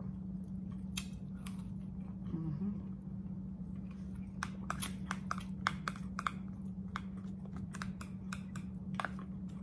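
Close-up eating sounds: chewing with sharp, wet mouth clicks and lip smacks, coming thickest from about four to seven seconds in. A steady low hum runs underneath.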